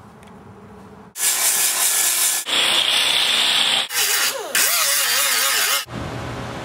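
Variable-speed grinder with a very rough disc grinding paint and rust off a truck's sheet-steel body panel: a loud harsh grinding noise in several passes with short breaks, the motor's whine wavering under load in one of them. Near the end it gives way to a steadier, quieter hum.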